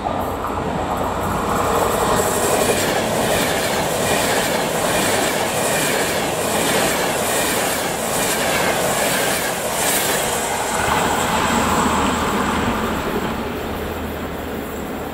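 ETR485 Frecciargento electric train passing close by: a steady rush of wheels on rail, with a regular clatter of wheels over rail joints through the middle, easing off slightly near the end.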